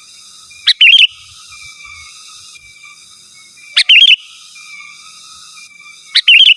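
Sooty-headed bulbul (kutilang) singing: three loud, short phrases about three seconds apart, each a quick note followed by a rapid wavering warble.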